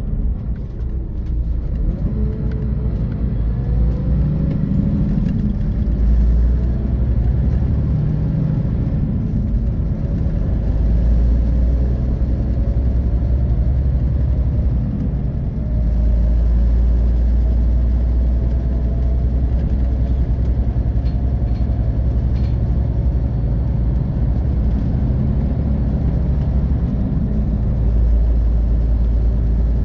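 Scania K450 coach's 13-litre six-cylinder diesel engine and road noise heard from inside the bus while driving, with heavy low rumble. The engine pitch climbs as the bus accelerates, with a brief drop in loudness about halfway through, as at a gear change.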